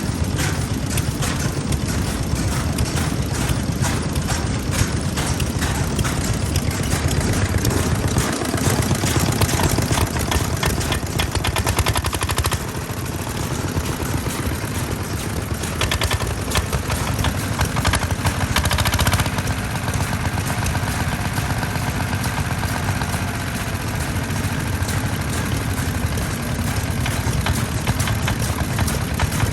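Old Japanese stationary farm engine (hatsudōki) running, its exhaust firing in a rapid run of sharp pops.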